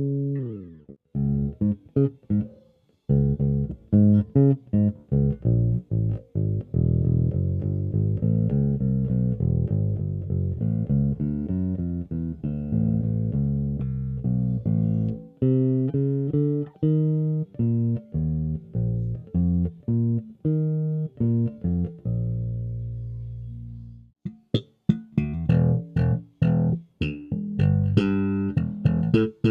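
Tokai AJB Jazz Bass-style electric bass played solo: a busy run of plucked notes. About 22 seconds in, a long note rings and fades away, then short, sharply attacked notes follow.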